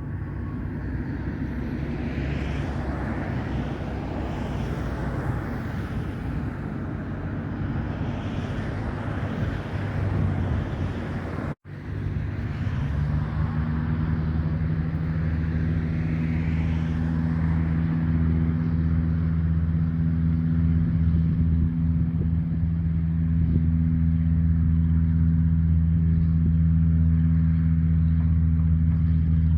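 Small propeller aircraft's piston engine. A broad rushing noise for the first dozen seconds, then, after a brief dropout, a steady low engine hum at a fixed pitch that slowly grows louder.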